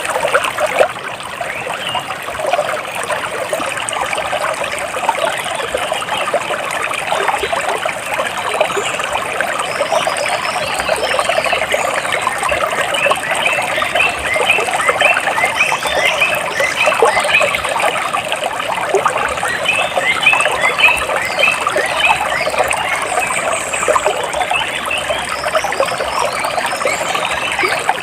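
Water splashing and trickling steadily, with birds chirping over it: runs of short, quick, high chirps come in about twelve seconds in and fade near the end.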